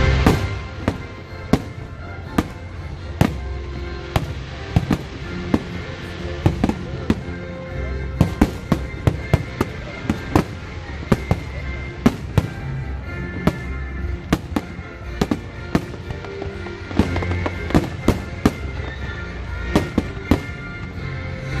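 Aerial fireworks going off in quick succession, with sharp bangs and crackles several times a second, over music playing along with the show.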